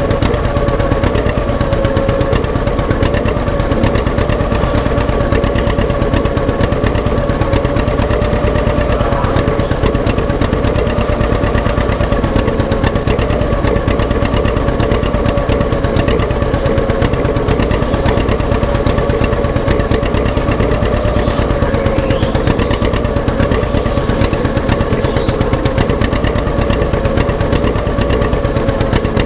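Antique tractor engine running steadily with rapid, even exhaust beats, a steady whine alongside it.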